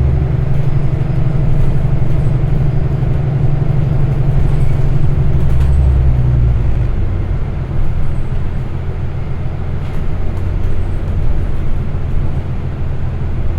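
City bus engine and drivetrain running under way, heard from inside the bus with road noise. The low engine tones shift about six and a half seconds in.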